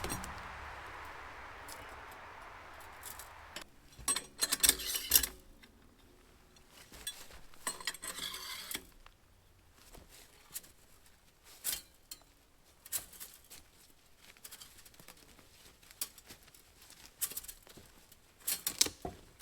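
Metal clinking and rattling as a roll of wire is fitted onto a tubing spooler used as a wire spinner: scattered sharp clicks with short rattling clusters, the loudest about four seconds in and near the end. A soft hiss fades away over the first few seconds.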